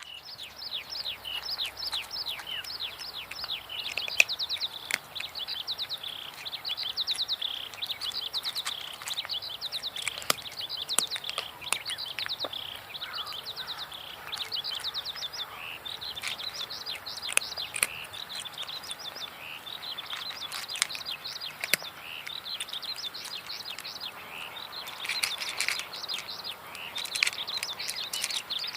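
Small birds chirping busily and continuously in rapid, quick down-sweeping notes, with occasional clicks.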